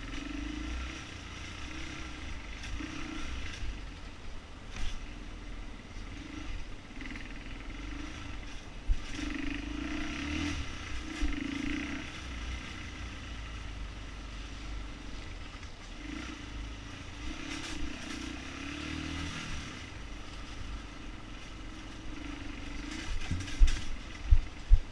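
Motorcycle engine running while it is being ridden, with a low rumble and a steady rush. A few sharp knocks stand out near the end.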